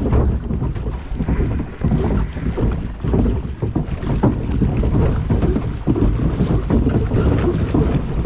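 Water rushing and splashing around a river rapids ride's raft boat, with heavy wind buffeting on the microphone as it moves along the channel.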